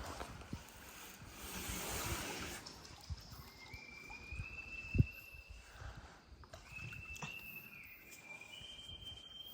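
Several thin, high, held animal calls, each about a second long and stepping slightly in pitch, start about three and a half seconds in. A brief rush of noise comes about two seconds in, and a single low thump about five seconds in is the loudest sound.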